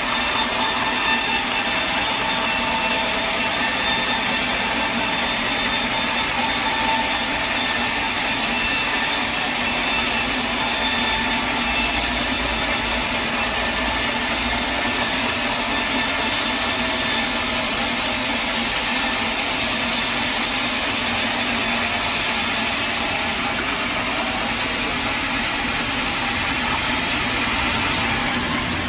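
Sawmill saw cutting lengthwise through a log in one steady, continuous cut, with a constant whine over the rasp of blade in wood. The sharpest high hiss drops away about three-quarters of the way through.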